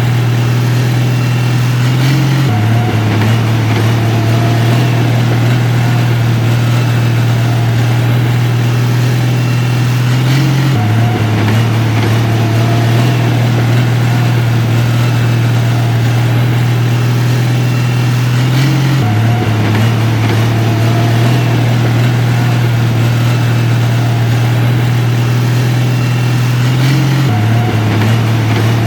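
Diesel engine of heavy earthmoving equipment running steadily, a loud low drone whose pitch steps slightly about every eight seconds.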